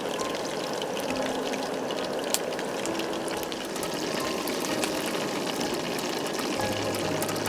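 Steady rush of flowing water, like a stream, with many small scattered clicks over it; faint music tones come in near the end.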